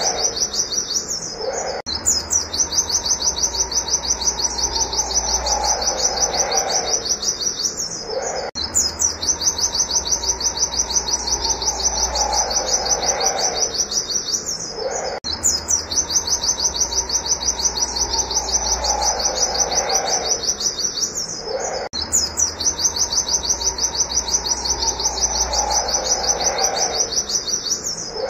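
White-eye (pleci) singing a fast, unbroken run of high 'wit wit' notes, several a second, in stretches of about six and a half seconds with short breaks between them.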